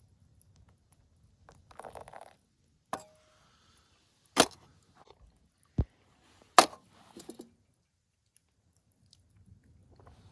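Four sharp knocks and clinks a second or so apart, as objects are set down or handled, with brief scraping and rustling between; the first leaves a short ring.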